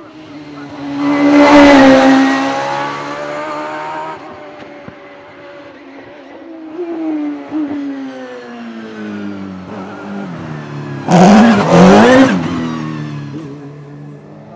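Racing car engine at full throttle passing close by, then its note stepping and falling through gear changes as it pulls away. A second loud burst of engine noise, rising and falling in pitch, comes about eleven seconds in.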